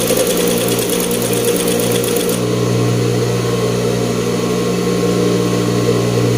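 Industrial coverstitch machine (collaretera) stitching with a fast, even rattle for about two seconds, then stopping while its motor keeps running with a steady hum.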